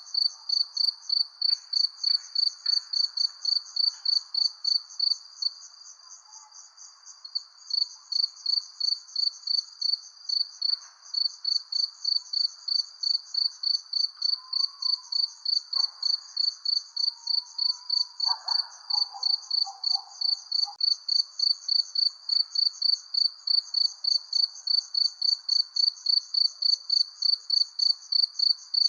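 Cricket chirping in an even, high-pitched rhythm of about three chirps a second, pausing for a couple of seconds about six seconds in. A faint night-time background haze sits underneath.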